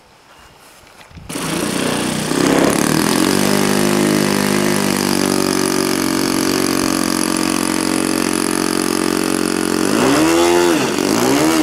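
Electric motor and propeller of a radio-controlled plane running at steady high throttle, cutting in suddenly about a second in over a hiss of rushing air. Near the end the pitch dips and climbs again twice as the throttle changes.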